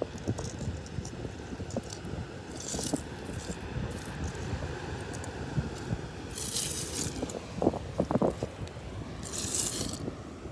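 Loose seashells clinking and rattling against each other in three short bursts over a steady low rumble.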